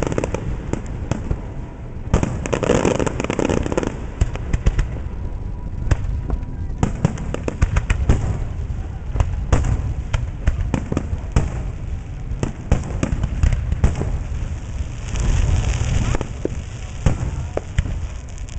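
Aerial fireworks display: a rapid run of shell bursts, sharp bangs and crackling close together, heaviest about three seconds in and again near the end.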